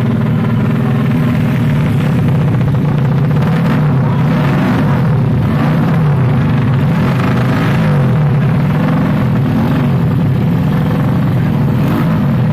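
Tuned Yamaha Jupiter Z drag-race motorcycle engines running and being revved, their pitch wavering up and down.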